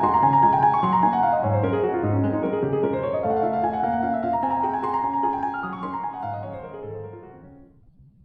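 Background piano music, gentle with falling runs of notes, fading out near the end.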